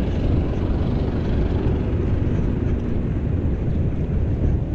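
Steady low rumble of wind buffeting the camera microphone while riding a bicycle.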